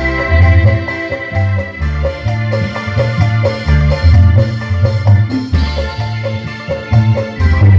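Keyboard-led music played loud through a large PA sound system during a sound check, with a heavy bass pulsing in a steady beat under short repeated keyboard notes.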